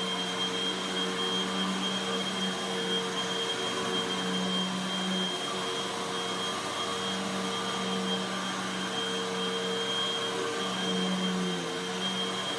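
Hoover WindTunnel High Performance upright vacuum cleaner running on carpet: a steady motor hum with a thin high whine, its pitch shifting slightly a few times.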